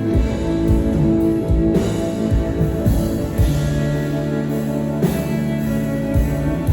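Live rock band playing an instrumental passage: guitar and bass holding chords over a drum kit, with a cymbal crash about five seconds in.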